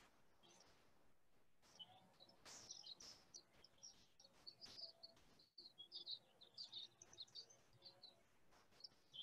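Faint birdsong: quick runs of short, high chirps, starting about two seconds in and continuing almost to the end.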